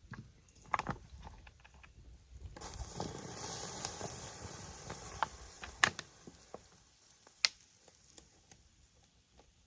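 A hissing rush that starts suddenly about two and a half seconds in, swells, and fades over about four seconds, among scattered sharp clicks and knocks, the loudest a few seconds apart.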